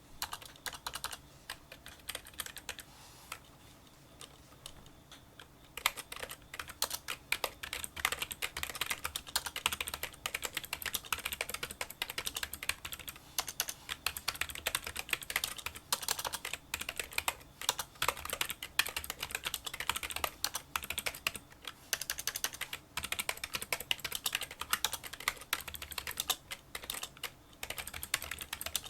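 Typing on a Kinesis Freestyle Solo split keyboard with membrane key switches: small clicking keystrokes. There are a few scattered presses at first, then fast, continuous touch-typing from about six seconds in.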